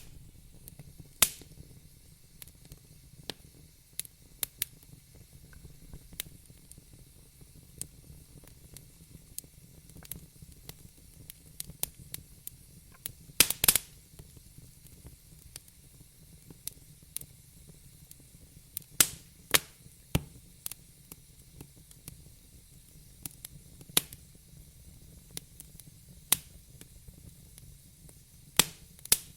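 Wood fire burning in a fireplace, crackling with irregular sharp pops and snaps, a few much louder than the rest, over a faint low rumble and light hiss.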